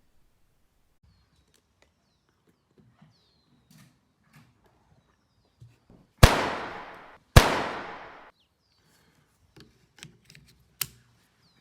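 Two rifle shots a little over a second apart, each a sharp crack with about a second of echo fading away. Faint bird chirps and small handling clicks lie around them.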